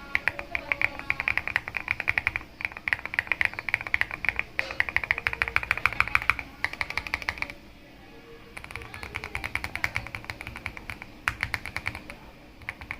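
A mechanical keyboard with MMD Princess V2 linear switches under MA-profile keycaps, typed on fast: a dense run of keystroke clacks, with a pause of about a second just past the middle.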